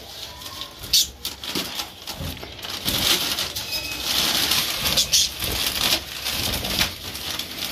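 Pet budgies rustling and flapping their wings, with a few faint chirps and scattered scratchy clicks.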